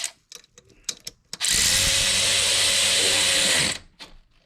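A few light clicks and knocks, then a power drill runs steadily for about two seconds and stops, driving in the fastener of a newly fitted ignition coil pack.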